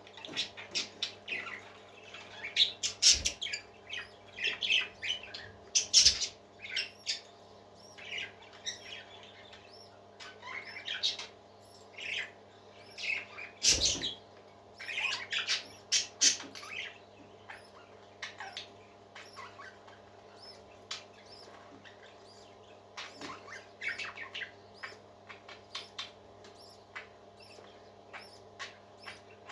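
Parakeets chirping and twittering in quick, short calls, busiest in the first half and thinning out later, with a few sharp knocks and a steady low hum underneath.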